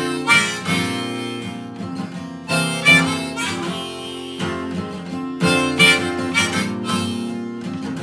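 Harmonica playing a melody over strummed acoustic guitar chords, an instrumental break in a folk song.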